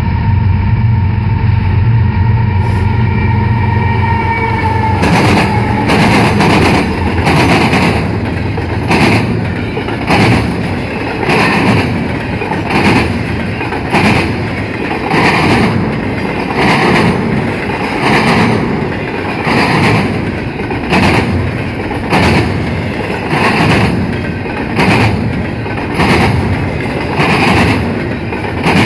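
Intermodal freight train passing close by: a train horn sounds for the first few seconds and drops in pitch as it fades, then the train rumbles past with the wheels of the container well cars clacking in a steady rhythm, about one burst every second and a half.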